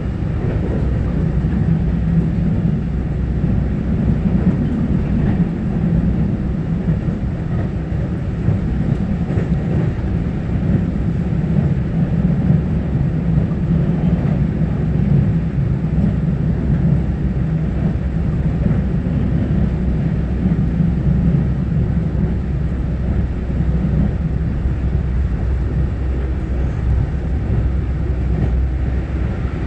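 Taiwan Railway EMU900-series electric multiple unit heard from inside the passenger car while running between stations: a steady low rumble of wheels on rail and running gear.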